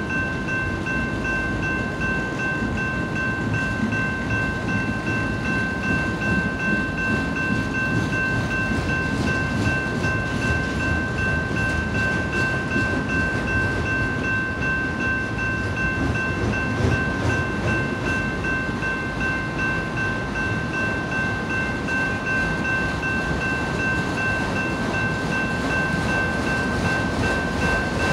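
Freight train of autorack cars rolling past at a grade crossing: a steady rumble and rattle of wheels on rail, with the crossing's warning bell ringing steadily over it.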